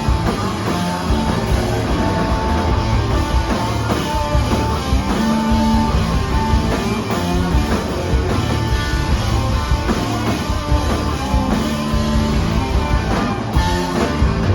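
Live rock band playing an instrumental passage: guitars holding long notes over bass and a drum kit.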